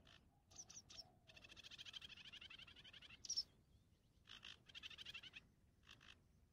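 Faint birdsong: short high chirps and two rapid trills, with one sharper, louder note about three seconds in.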